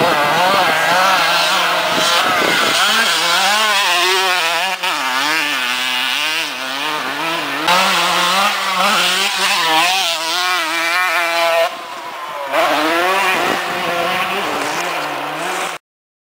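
Motocross dirt bike engine being ridden, its revs rising and falling over and over as the throttle is worked, with a brief drop about twelve seconds in; the sound cuts off suddenly near the end.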